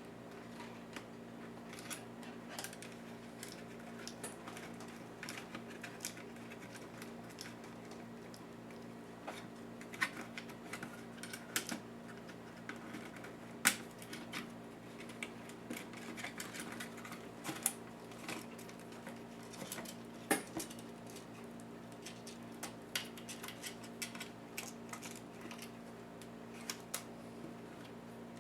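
Small irregular clicks and taps of tools and plastic and metal parts being handled while a Lenovo IdeaPad S10-3T netbook is disassembled. A few sharper clicks come about halfway and two-thirds in, over a steady low hum.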